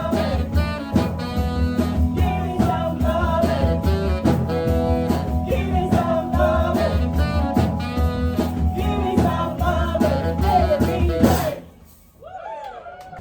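Blues band playing live, with drum kit, bass and lead melody lines over a steady groove. About eleven and a half seconds in, the band drops out suddenly, leaving only a faint wavering tone before the music comes back in.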